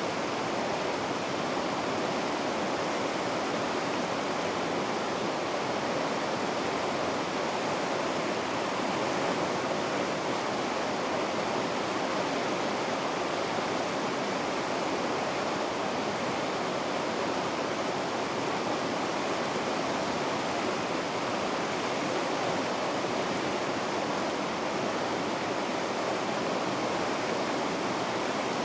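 River rapids rushing steadily: an even, unbroken roar of white water.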